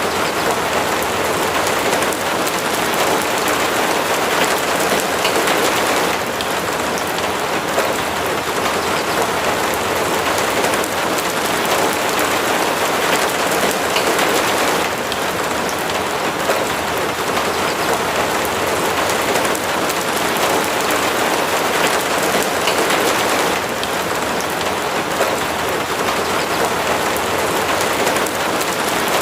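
Steady heavy rain falling on surfaces, a dense even hiss with slight swells every few seconds.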